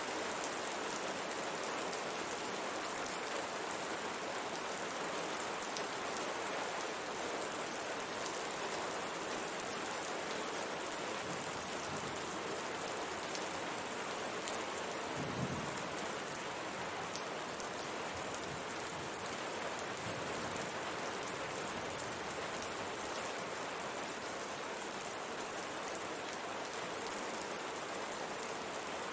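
Steady rain pattering on window glass, with scattered individual drop taps, and a brief low rumble about fifteen seconds in.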